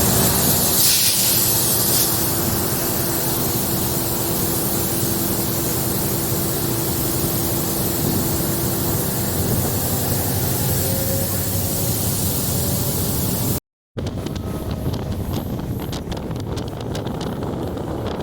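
Diesel-electric multiple unit (DEMU) train running, heard from on board: a steady rush of engine, wheel and air noise with a steady hum that fades about nine seconds in. The sound drops out for a moment near the end, and after that wind buffets the microphone.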